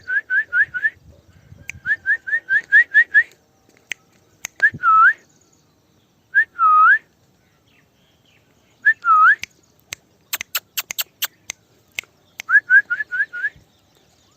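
Whistled calls to a pet parrot: quick runs of short rising whistles, about six a second, and three longer swooping whistles, with a run of sharp clicks in the middle.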